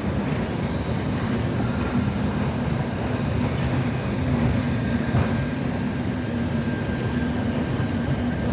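Electric street tram running on rails: a steady low rumble with a faint high whine and a few light clicks from the wheels on the track.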